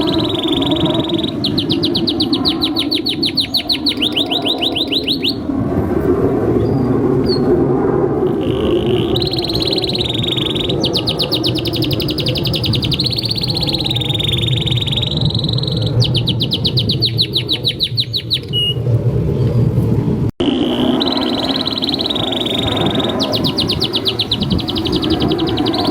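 Domestic canary singing a long continuous song: fast rattling trills and rolling phrases, one after another with only short breaks, over a steady low background noise. The song drops out for an instant about 20 seconds in.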